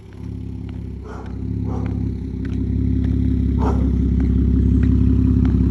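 Dodge Durango V6 exhaust through an aftermarket exhaust system, the engine revved up: the note builds in loudness over the first couple of seconds and is then held at a steady higher rev.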